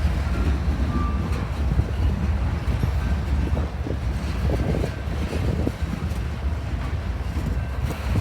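A train rolling past with a steady, heavy low rumble.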